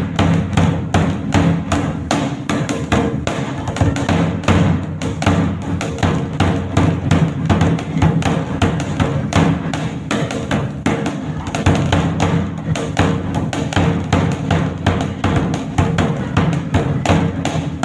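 Dhak, a large two-headed barrel drum, played steadily with sticks in a fast, dense rhythm of several strokes a second.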